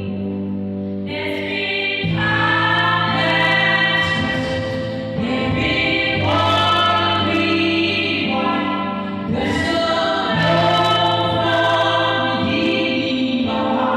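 Gospel song with choir vocals over sustained chords and bass notes.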